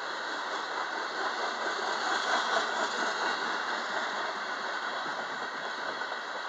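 Covered hopper cars of a long freight train rolling past, a steady rush of steel wheels on rail that swells a little about two to three seconds in.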